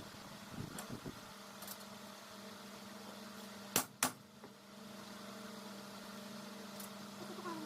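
Steady hum of an electric motor running, with two sharp knocks close together about four seconds in.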